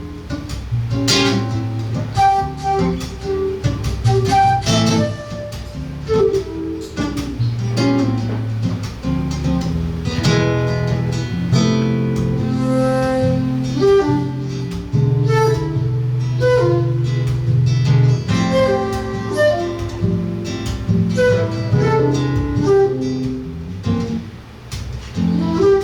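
Seven-string acoustic guitar and flute playing together live, with plucked guitar notes and a bass line under the flute's melody.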